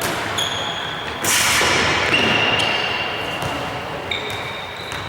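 Indoor tchoukball play in a sports hall: athletic shoes squeaking on the court floor in several short high squeals, with a loud rushing burst of noise about a second in.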